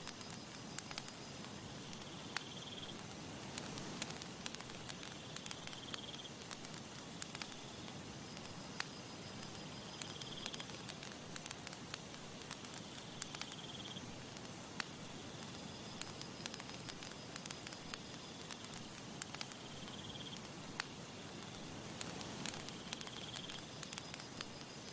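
Wood campfire crackling, with frequent sharp pops and clicks over a soft, steady breeze noise. A short high-pitched trill recurs every three to four seconds.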